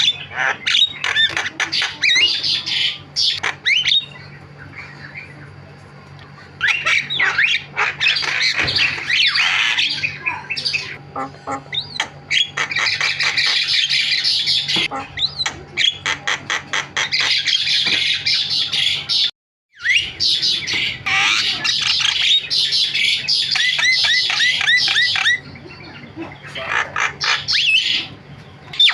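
Javan myna (jalak kebo) singing in loud, busy phrases of harsh squawks, gliding whistles and rapid clicking rattles, broken by short pauses; the sound cuts out completely for a moment about two-thirds of the way through.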